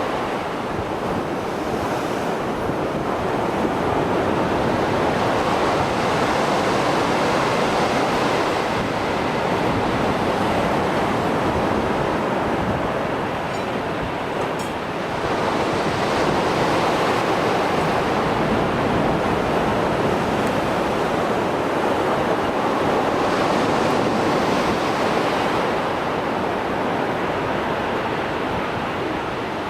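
Mediterranean Sea surf after a storm: waves breaking and washing in a steady rush that swells and eases every several seconds, with some wind on the microphone.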